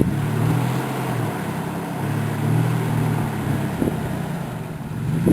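Off-road vehicle's engine running at low speed with a steady low drone as the vehicle crawls up over rocks.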